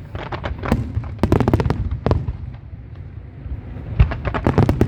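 Fireworks display going off: clusters of sharp crackling bangs over a steady low rumble, easing off briefly in the middle before a heavy boom about four seconds in and another rapid run of cracks.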